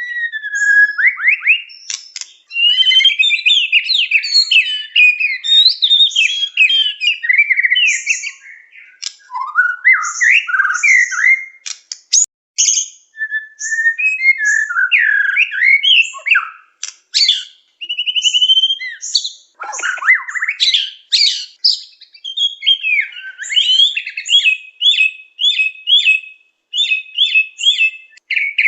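White-rumped shama (murai batu) singing a long, varied song of whistles, glides and rapid chattering notes, with a run of quickly repeated phrases near the end.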